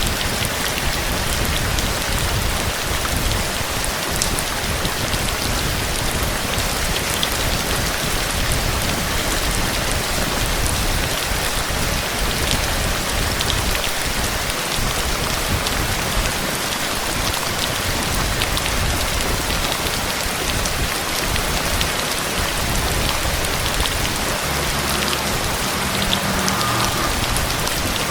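Heavy rain falling steadily, a dense even hiss with scattered drop ticks and a low rumble underneath.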